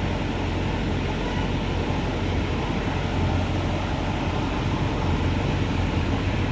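Truck engine running steadily: a low, even rumble.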